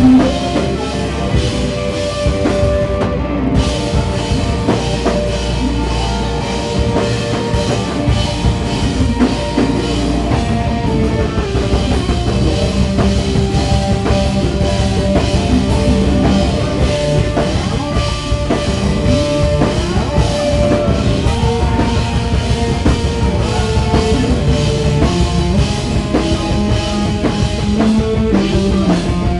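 Rock band playing live: a drum kit keeps a steady, driving beat under guitars and bass.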